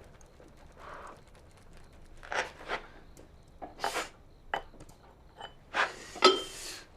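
Dishes and utensils clattering: a handful of separate clinks and knocks, a few with a short ringing tone, and some scraping. The loudest clink comes near the end.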